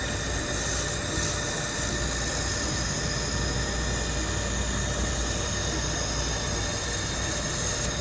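IPG LightWELD handheld laser welder running a continuous weld pass at about 770 watts on thin aluminum: a steady hiss with faint high-pitched tones, over a low steady hum.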